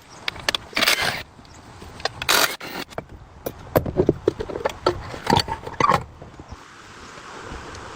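Irregular clicks, knocks and scraping noises, with two longer scrapes in the first three seconds, then a steady low noise.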